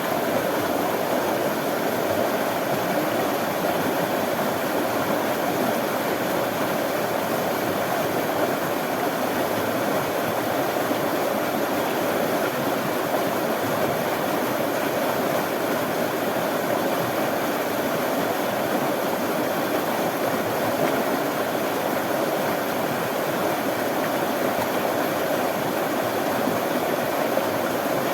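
Running water flowing in a steady, even rush, with no breaks or changes in level.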